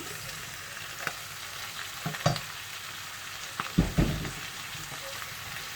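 Vegetables frying in a pan with a steady sizzle, stirred with a utensil that knocks against the pan several times, loudest about four seconds in.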